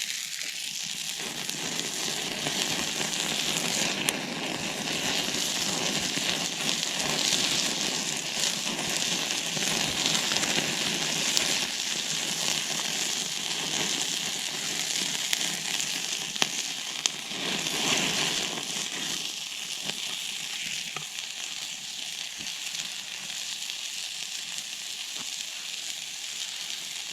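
Food sizzling steadily in a pan over campfire embers, with a few sharp crackling pops from the fire.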